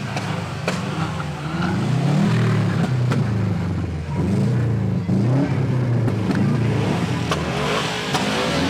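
Car engine revving up and down repeatedly, its pitch climbing and falling several times, with a few sharp cracks.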